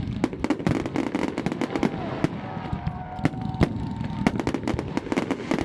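Fireworks display: a rapid, irregular string of sharp bangs and crackles over a continuous low rumble of more distant bursts.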